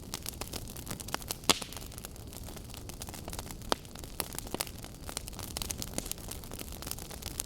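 Burning logs in a wood fire crackling, with frequent sharp pops over a low steady rush of flame; the loudest pop comes about a second and a half in.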